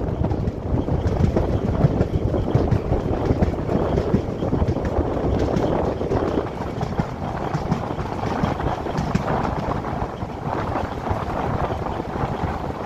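Passenger train running steadily at speed, heard from outside the coach: wheels rumbling on the rails, with wind buffeting the microphone.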